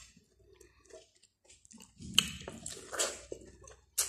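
Close-miked mouth sounds of biting into and chewing boiled sweet corn on the cob, starting about halfway in after a near-silent pause.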